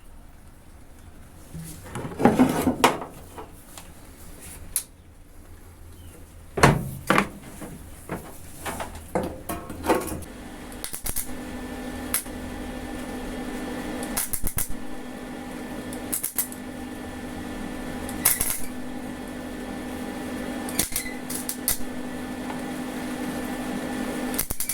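Metal tools and parts clanking and clinking in a workshop, with sharp knocks scattered through and a steady hum coming in about halfway and slowly growing louder.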